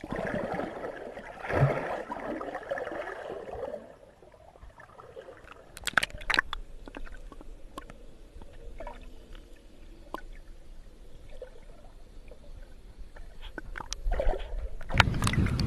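Sea water sloshing and gurgling around an action camera held in the sea, quieter in the middle with scattered sharp clicks, then louder sloshing near the end.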